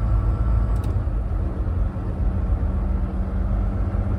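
Semi truck's diesel engine running steadily with road noise, heard from inside the cab while driving.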